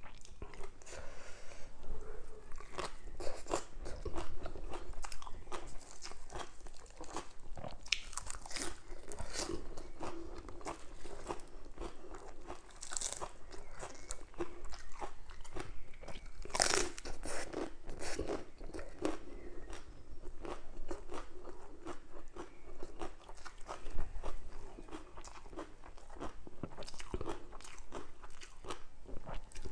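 Crunchy bites and chewing of Thai papaya salad with crispy fried fish and raw lettuce leaves. Many sharp crunches follow one another, with a loud burst a little past halfway.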